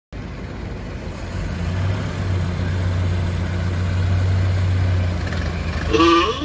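A car engine running with a steady low hum. Near the end comes a short, louder pitched sound that bends in pitch.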